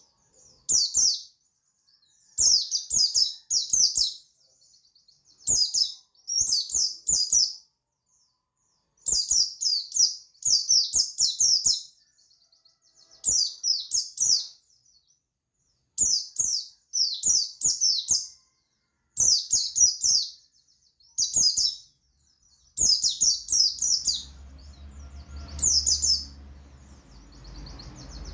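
Pleci buxtoni (a white-eye) singing its wild 'ngalas' song: short phrases of rapid, high twittering chirps, repeated every one to two seconds with brief pauses. A low background rumble comes in under the song about three-quarters of the way through.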